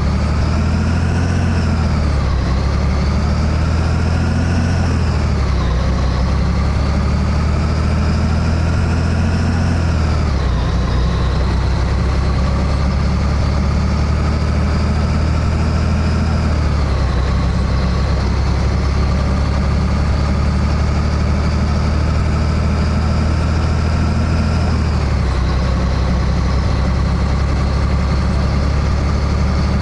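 Diesel engine of a Scania 113H truck pulling up through the gears. The revs climb in each gear, then drop sharply at five gear changes, and each gear is held longer than the last.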